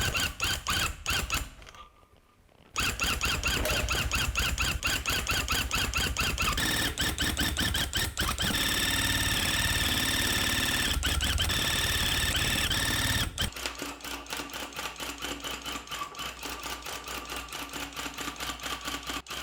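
Electric tufting gun running in bursts, its needle and cutter rattling fast as it punches yarn into the backing cloth. It stops briefly about two seconds in, runs with a higher steady whine in the middle, then goes on more quietly near the end.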